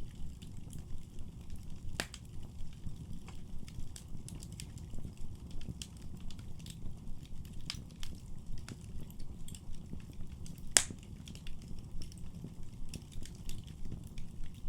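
Wood fire burning in a fireplace, crackling with frequent small pops over a steady low rumble of the flames. A louder pop comes about two seconds in, and the sharpest, loudest pop comes about two-thirds of the way through.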